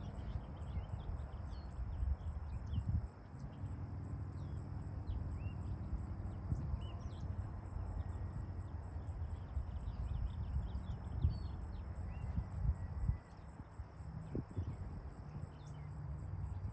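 Insects, likely crickets, chirping in a steady, evenly pulsed high trill, with scattered short bird chirps over a low rumble.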